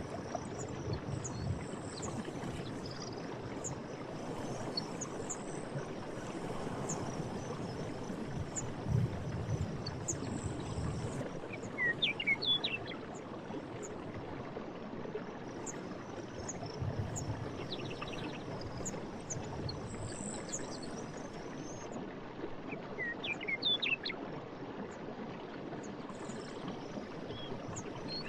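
Steady rush of a forest stream with occasional low gurgling surges. A bird gives a short burst of chirps about twelve seconds in and again near the end, over faint high insect ticking.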